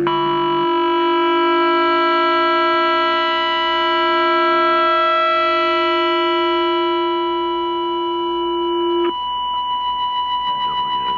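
Steady whistling tones from an AM radio receiver as amateur AM transmitters tune up on frequency. Two tones overlap; the lower one cuts off about nine seconds in, and the higher one carries on with a slight regular wavering.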